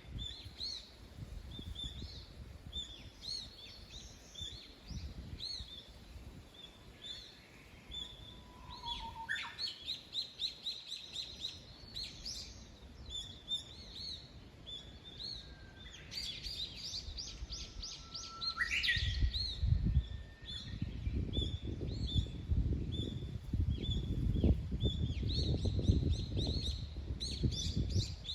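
Several small songbirds chirping and singing, with short repeated calls throughout and two longer trilling songs near the middle. A low rumble comes in during the second half.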